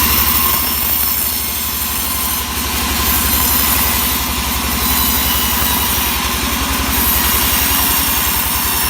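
Engine of a log saw running steadily at low speed, without the rising whine of cutting, dipping slightly in level a second or two in.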